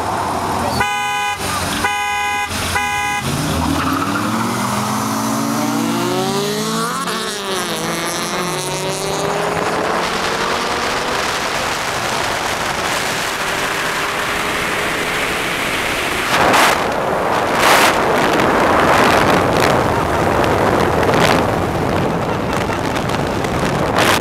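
Three short car-horn honks, then Honda four-cylinder engines, a B16 CRX Si with a Buddy Club exhaust and an LS-VTEC Civic coupe, accelerating hard from a rolling start, pitch climbing and dropping back with each upshift. After that the engines give way to a steady rushing noise with a few loud surges.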